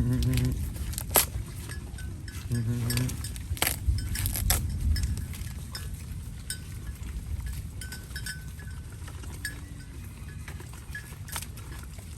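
Cows eating banana leaves, with two short, low moos in the first three seconds and scattered sharp snaps and crunches of leaves being torn and chewed.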